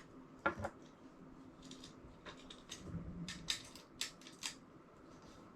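Faint clicks and rustles of small hardware being handled and screwed together while a base mount is fitted onto an ice-fishing shuttle, with a sharper click about half a second in and a quick run of them near the middle.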